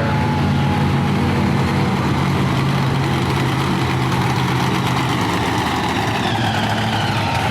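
Monster truck engine idling steadily, with a deep, even rumble.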